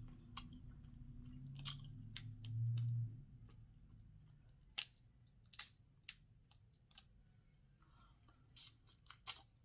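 Close-up chewing and wet mouth smacks of someone eating boiled seafood. It starts with a low murmur under the chewing, then turns into separate sharp smacks and clicks, with a quick cluster near the end.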